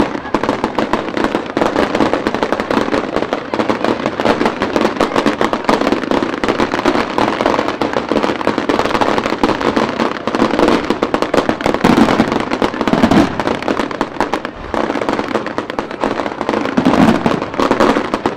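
Fireworks crackling overhead: a dense, continuous crackle of rapid small pops that never pauses.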